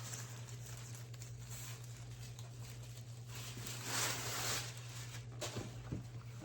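Quiet handling of a doll's cardboard collector box: faint taps and clicks, with a brief rustle about four seconds in, over a steady low electrical hum.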